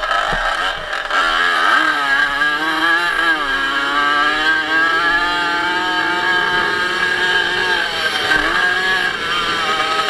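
Small racing motorcycle engine at high revs, heard from the rider's helmet camera. Its pitch rises and falls as the throttle is opened and eased for the corners, dipping about a second in and again about eight seconds in.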